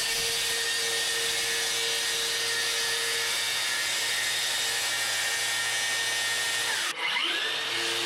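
A power tool running steadily. About seven seconds in it dips briefly, its pitch sagging and recovering.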